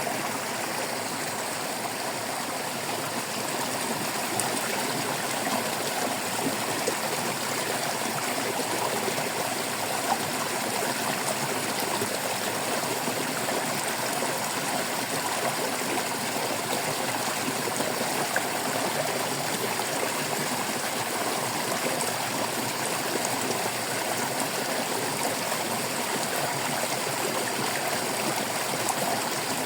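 Water of a stream babbling and trickling steadily over stones, a continuous splashing with small irregular drips and plinks.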